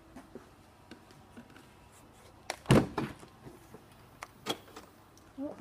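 Small clicks and knocks of a car's boot lid being worked, with one loud thunk about two and a half seconds in and a lighter knock near the end.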